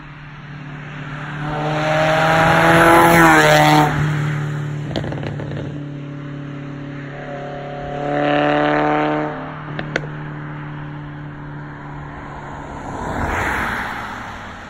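Toyota MR2 engine revving hard as the car accelerates past, the note building for about two seconds and cutting off suddenly; a few seconds later it pulls hard again through a second rising rev. A couple of sharp cracks follow, and another car passes with tyre noise near the end.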